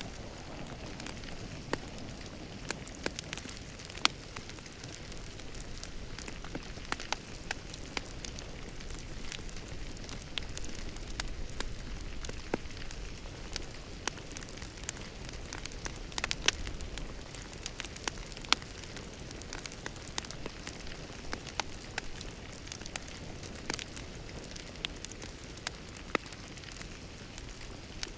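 Fireplace fire crackling: a steady soft hiss with frequent irregular pops and snaps, a few of them sharper and louder.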